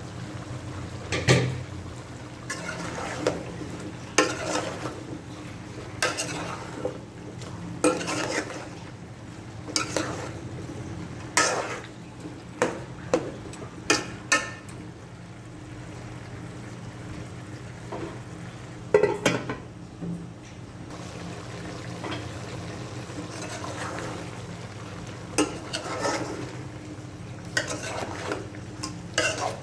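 A utensil clinking and scraping against a cooking pot as ingredients are stirred, with irregular sharp knocks.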